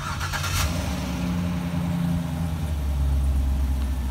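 Chevrolet C6 Corvette V8 idling, with its low note growing stronger and steadier about two-thirds of the way in.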